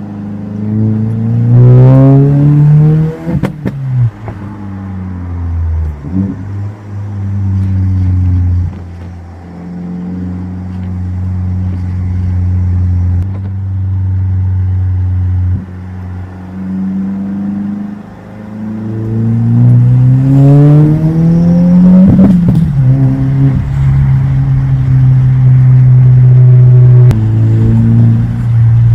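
2025 Subaru WRX tS's turbocharged flat-four engine accelerating hard. The revs climb steeply twice, once in the first few seconds and again about two-thirds through, and each time drop suddenly. Between the pulls and near the end the engine holds a steady drone.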